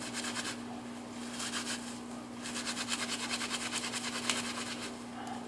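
Dry inner-bark fibers rubbed and crushed between the hands, in quick rasping strokes that come in several bouts, to break the fibers down. A washing machine hums steadily underneath.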